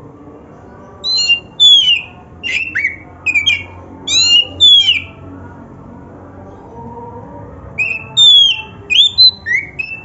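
Oriental magpie-robin (kacer) singing in two loud bursts of clear, sharply sliding whistled notes: the first starts about a second in and runs some four seconds, and the second comes near the end after a pause.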